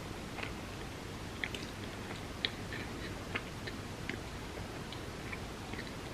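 Close-miked chewing of an ice cream sandwich: soft, wet mouth clicks and smacks, a few of them sharper, over a steady background hiss.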